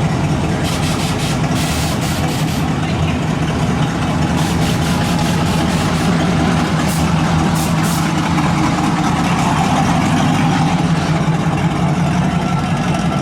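Pickup truck engine idling steadily, a constant low hum with no revving.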